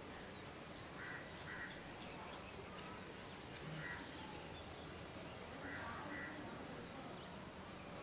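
Birds calling in the open: about five short, rough calls, two pairs and a single one, with faint thin chirps higher up, over a steady background hiss.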